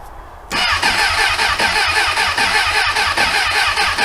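Suzuki motorcycle's electric starter cranking the engine over in a fast, even rhythm, starting about half a second in, without the engine catching: a cold engine left unstarted for over a month that will not fire.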